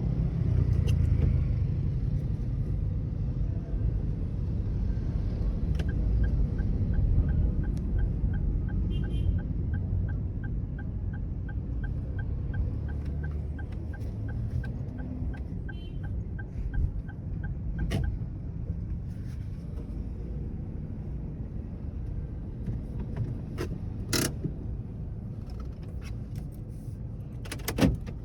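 Car interior rumble of engine and tyres on the road, with a turn-signal indicator ticking steadily, about two or three ticks a second, for roughly twelve seconds in the middle. A few sharp clicks come later, the last near the end.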